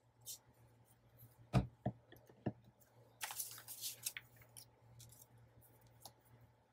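Paper and craft materials handled on a tabletop: three light knocks about a second and a half in, then a second of paper rustling, with a few small clicks.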